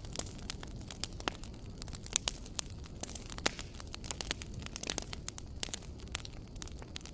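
Wood fire crackling in a fireplace: many sharp, irregular pops and snaps, several a second, over a low steady rumble of the burning fire.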